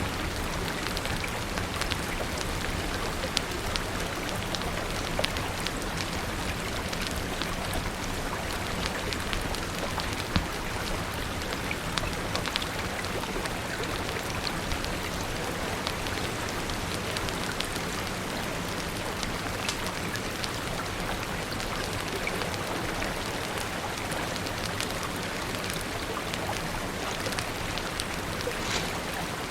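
Steady rain falling and spattering on surfaces, a dense even hiss dotted with many sharp drip ticks and an occasional louder click.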